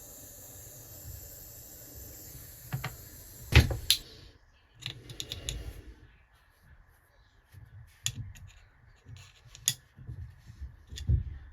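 A steady hiss that cuts off about four seconds in, with sharp clicks and one loud knock around that point, then scattered light clicks and taps of small tools and metal parts being handled on a workbench.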